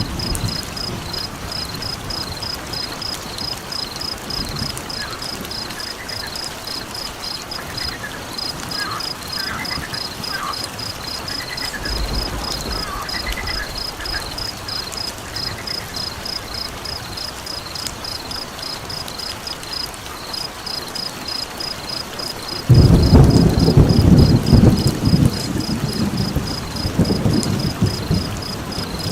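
Layered nature soundscape: a steady hiss under a cricket trilling in fast, even pulses, with frogs calling in short rising-and-falling notes for several seconds in the middle. About three-quarters of the way through a loud, low rumble of thunder comes in and carries on to the end.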